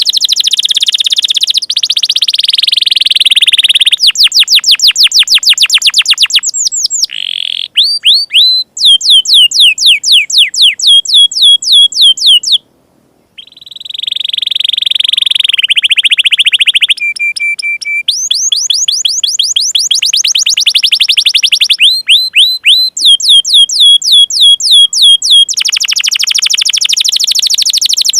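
Domestic canary singing a long run of fast, loud trills and rolls, about ten chirps a second. The pattern changes every few seconds, with a brief pause about halfway and a short steady whistled note soon after.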